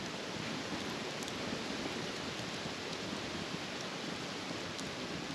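Wagyu steaks searing directly on campfire embers: a steady sizzle with a few faint crackles.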